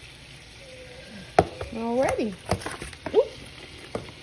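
Faint steady sizzle of potatoes cooking in butter in a pot on the stove, with a few sharp clicks and knocks as a seasoning container is handled and set down.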